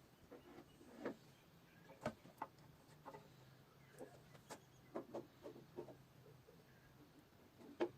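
Faint, irregular light knocks and clicks, roughly one a second, over a low steady hum.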